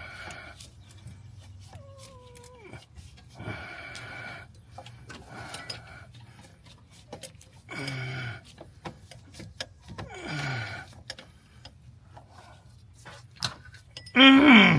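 A man breathing hard in short huffs and grunting with effort, with scattered light clicks and taps of tools on metal. Near the end comes a loud strained groan.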